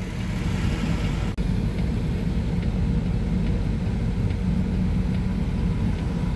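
Steady low drone of a semi truck's diesel engine and road rumble heard from inside the cab.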